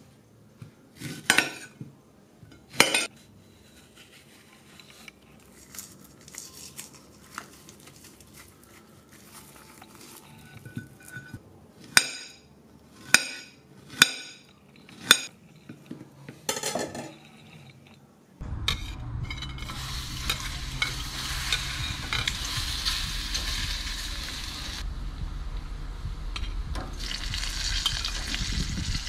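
Knife cutting a ripe banana on a glass plate, the blade clicking sharply against the plate a handful of times. About two-thirds of the way in, this gives way to a steady sizzle of banana slices frying in oil in a steel pan on a grill, stirred with a slotted spoon.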